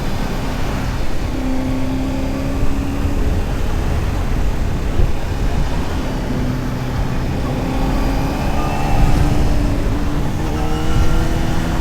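Honda CBR600RR's inline-four engine and exhaust under way, heard from the rider's seat through heavy wind noise. The engine note holds steady for a while, then climbs in pitch over the last few seconds as the throttle opens.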